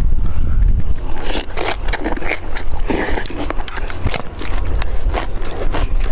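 Close-up eating sounds: crunching and chewing food in a quick irregular run of sharp clicks, over a steady low rumble of wind on the microphone.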